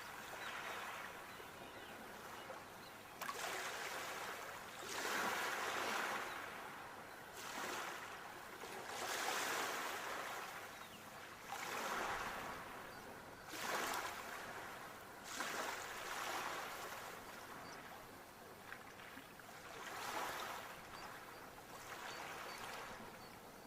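Sea waves breaking and washing up on the shore, the surf rising and falling in a new surge every two to three seconds.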